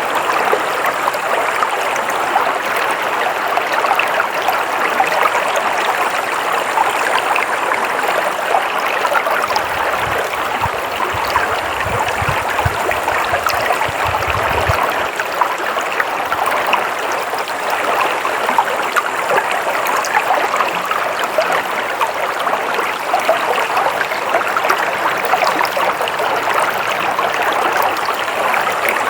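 Flowing water, a steady stream rushing and trickling. A low rumble joins it for a few seconds around the middle.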